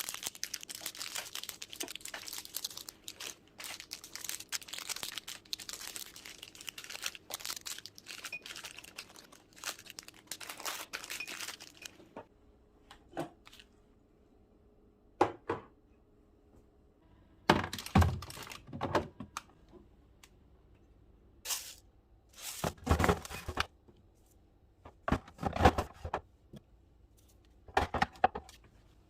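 Plastic packaging crinkling and tearing for about twelve seconds, then a scattering of short knocks and clatters as items are set down and handled.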